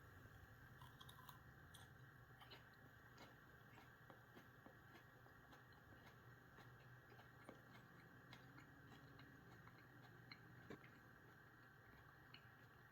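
Faint chewing of a whole fresh Trinidad Scorpion pepper, with scattered soft mouth clicks over a low steady room hum.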